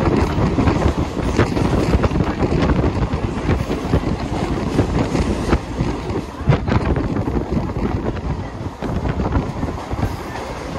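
Mumbai local train running along the track, heard from on board: a steady loud rumble of wheels and running gear with a few sharp clacks as the wheels cross rail joints.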